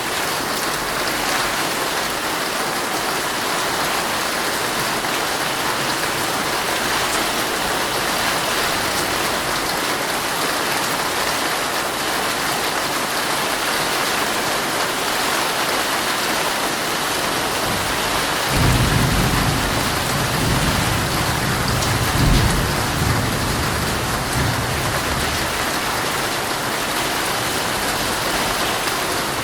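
Heavy rain falling steadily on a tent. About two-thirds of the way through, a low rumble of thunder comes in suddenly, swells and fades over several seconds.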